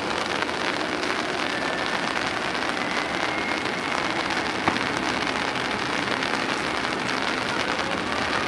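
Heavy rain falling steadily, with a faint jet-engine whine gliding in pitch behind it and rising near the end. A single sharp tap about halfway through.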